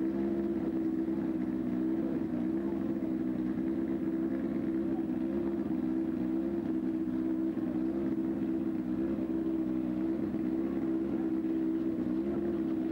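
A racing car's engine idling steadily, its note wavering slightly.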